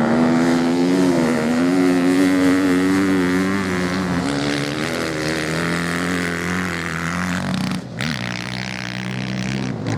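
Motorcycle engines running, the engine note wavering and stepping down in pitch about four seconds in, with a brief dip about eight seconds in.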